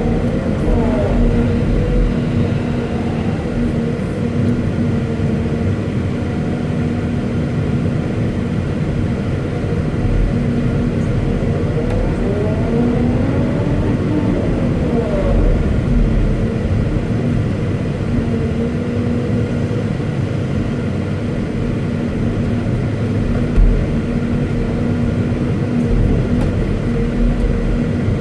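Caterpillar 329E excavator's diesel engine running steadily with a constant hum. A whine rises and falls about a second in and again around the middle, and there is a single short knock near the end.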